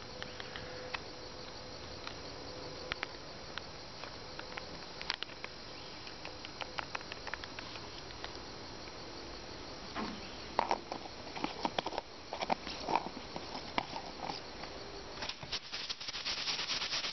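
Insects chirping steadily, with scattered sharp clicks throughout and a fast, dense rattling in the last couple of seconds.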